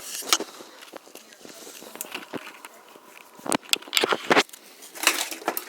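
Scattered sharp knocks and clicks, with a cluster of louder ones between about three and a half and four and a half seconds in.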